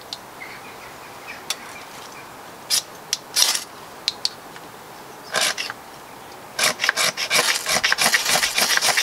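Hard rasping scrapes while a fire is being lit from pallet-fatwood shavings: a few single strokes, then a fast run of about four strokes a second near the end.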